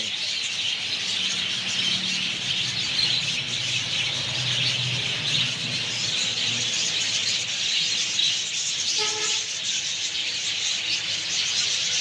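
Many small cage birds chirping and chattering in a dense, constant high twitter, with a low steady hum during the first half.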